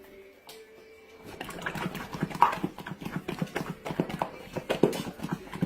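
A dog's paws clattering in a quick, fast patter, starting about a second in.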